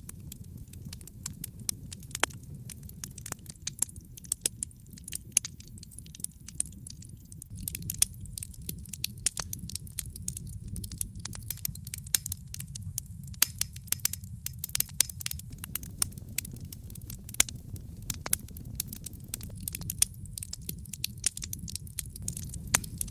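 Wood fire in a fireplace crackling: irregular sharp pops and snaps over a steady low rumble of the burning. The pops come thicker about a third of the way in.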